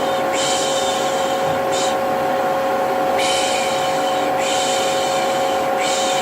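Vacuum cleaner running steadily with an even motor whine, while a person repeatedly makes a soothing 'shh' shushing sound, about five hissing shushes of varying length.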